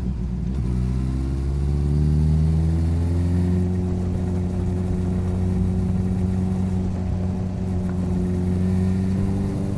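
Motorcycle engine accelerating, its pitch climbing for about three seconds and then holding steady at cruising speed.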